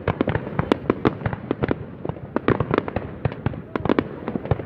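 Fireworks going off in a dense, irregular barrage of sharp bangs and crackling pops, several a second.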